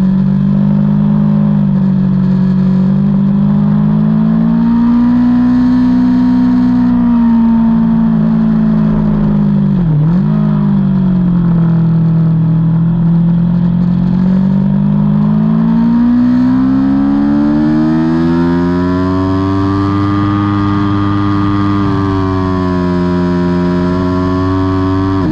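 Aprilia Tuono V4's V4 engine heard from on board, its revs rising and falling under hard riding. About ten seconds in the revs drop sharply and climb straight back, and later there is a long climb in revs that falls away near the end.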